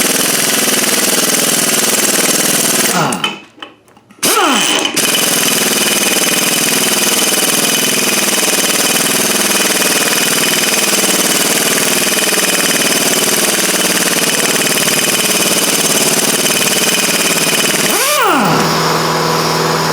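Impact wrench hammering on a differential ring gear bolt, a loud continuous rattle that stops briefly about three seconds in, then runs on until it changes pitch near the end. The bolt is left-hand thread and is being driven the wrong way, tightened instead of loosened.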